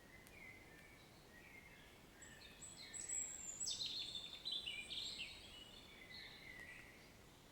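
Bird song, a run of short high whistled and chirping notes that is busiest and loudest in the middle, over a faint steady hiss of rain.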